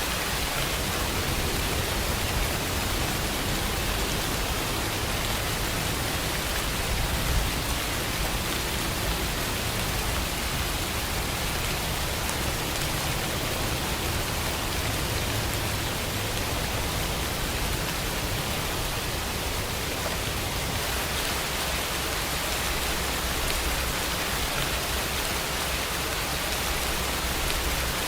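Steady rainfall, an even hiss of many drops without a break, with one slightly louder drop about seven seconds in.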